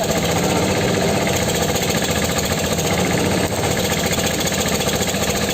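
Powertrac 430 tractor's diesel engine running steadily with a rapid, even firing beat.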